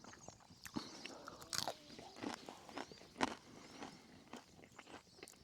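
Close-up chewing and crunching of crispy bacon: a few irregular crunches and bites, the loudest about one and a half and three seconds in.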